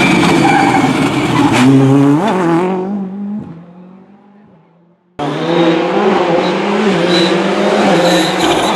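Rally car engines at high revs: one car's engine, its pitch jumping and gliding with throttle and gear changes, fades away over a couple of seconds. About five seconds in the sound cuts suddenly to another rally car running loud at high revs.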